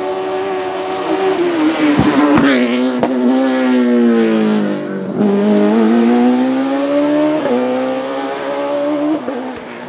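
Racing car engine on a hillclimb run: the revs fall away with a few sharp exhaust pops, then the engine pulls hard with the revs climbing, broken twice by quick upshifts.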